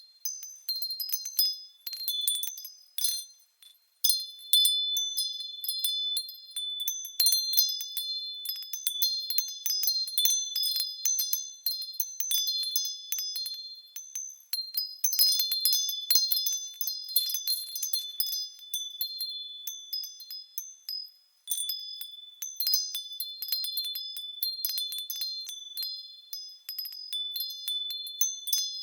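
Japanese fūrin wind chimes ringing as the wind swings their clappers: rapid, irregular strikes of clear, high tones that overlap and ring on, with brief lulls about four seconds in and again about two-thirds of the way through.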